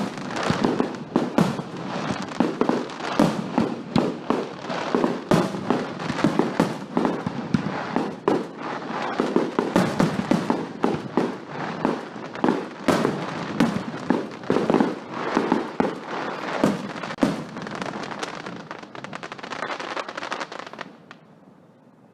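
Fireworks going off in a dense barrage of bangs and crackles, several a second, thinning out and stopping about a second before the end.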